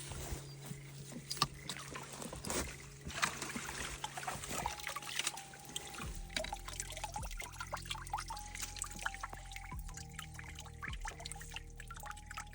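Water trickling and splashing in irregular small spurts, over soft background music with held notes.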